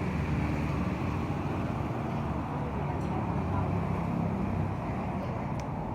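Steady road traffic noise: a continuous low engine and tyre hum.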